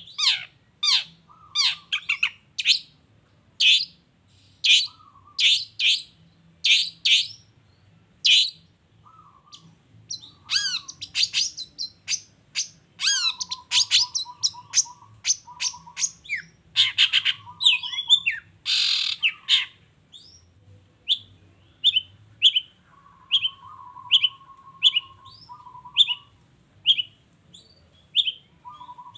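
Long-tailed shrike (cendet) singing: a fast string of short, harsh chirps and rasping notes with low buzzy trills mixed in, changing near the end to a steady run of short, clear repeated notes.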